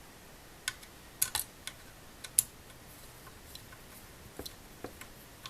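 A screwdriver tightening the heatsink screws on a graphics card: a scattering of light, irregular clicks and ticks, a small cluster of them between about one and two and a half seconds in.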